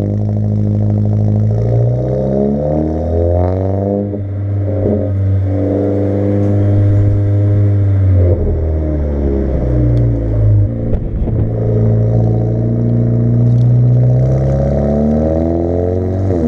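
2017 Audi A4 B9's 2.0-litre turbocharged four-cylinder with an AWE Track Edition exhaust, accelerating hard through the gears: the exhaust note climbs in pitch in each gear and drops back at each upshift, about every four seconds.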